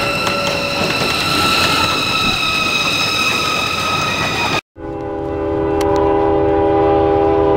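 A miniature ride-on park train running, its running noise carrying a steady high-pitched tone. About four and a half seconds in, after a brief gap, a locomotive air horn sounds one long chord of several notes at a rail crossing.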